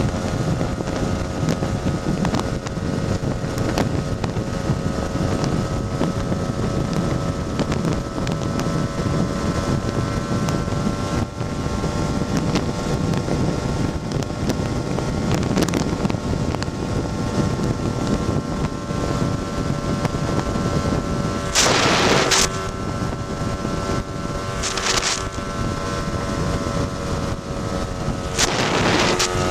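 Tuned Lambretta scooter's two-stroke engine running at a steady cruising speed, under wind noise on the microphone. Three short hissing rushes come in late on, the first the longest.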